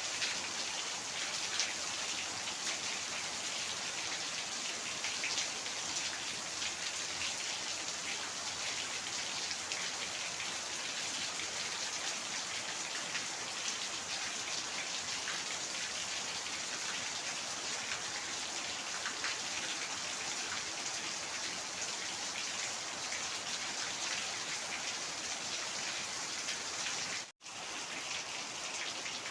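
Heavy rain falling steadily, a dense hiss of countless drops pattering on a surface. The sound cuts out for a split second about 27 seconds in.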